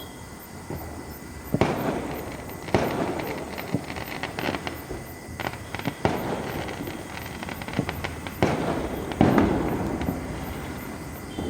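Aerial sky-shot fireworks bursting: about five sharp bangs over several seconds, each trailed by dense crackling.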